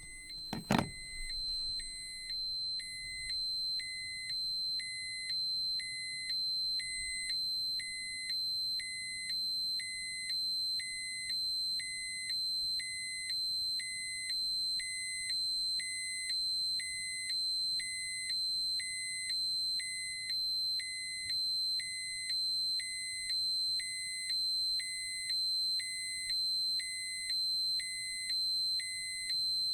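Electronic alarm sounding: a steady, piercing high tone with a lower beep pulsing about once a second underneath. A sharp click comes just under a second in.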